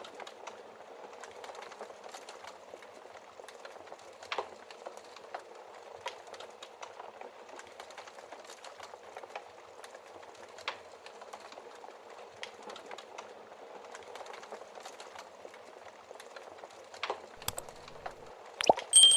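Wood fire crackling steadily in a fireplace, with scattered sharp pops. Near the end come a few louder knocks, and then a bright ringing clink.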